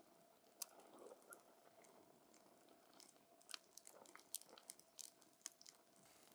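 Wood campfire crackling up close: faint, irregular sharp pops and snaps from the burning wood, coming thickest and loudest a little past the middle.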